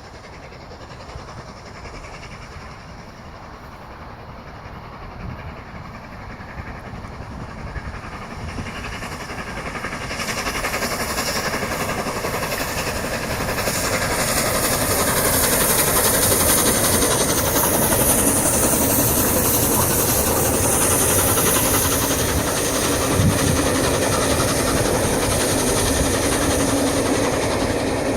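LNER Peppercorn A1 class Pacific steam locomotive 60163 Tornado approaching on a test run, growing steadily louder over the first half and staying loud as it draws close, with wheels clicking over rail joints.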